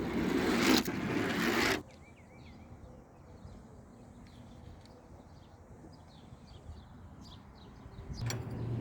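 Outdoor background with faint bird chirps, after a loud rush of noise in the first two seconds. The level rises again near the end with a steady low hum.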